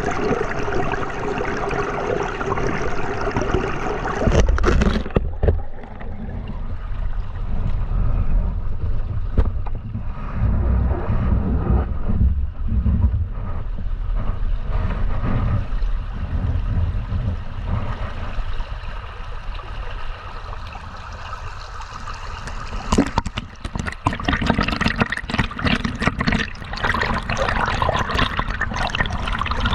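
River water running and gurgling. About five seconds in, the sound turns muffled and deep. Near the end it opens up again into a brighter, crackling splash.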